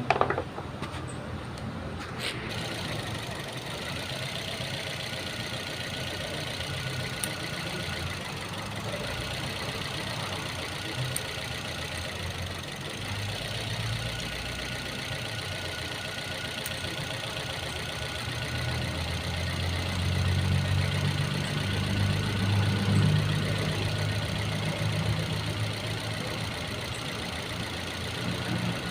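Car engine idling, being checked for a cylinder misfire, with a couple of sharp clicks in the first few seconds. Past the middle, a low, uneven rumble grows louder.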